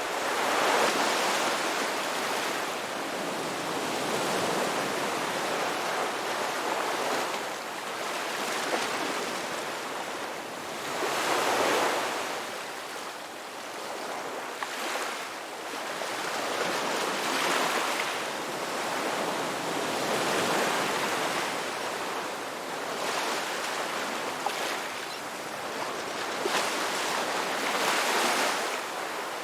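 Ocean waves washing onto a beach in a continuous surf, swelling and easing every few seconds.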